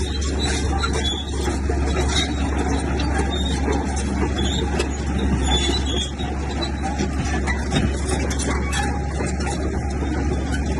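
Komatsu bulldozer working: its diesel engine runs at a steady drone while many short metallic clicks and clanks come from the running gear.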